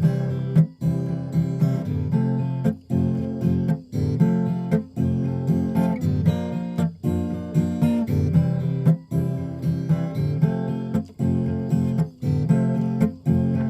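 Strummed acoustic guitar music, with a steady rhythm of chords.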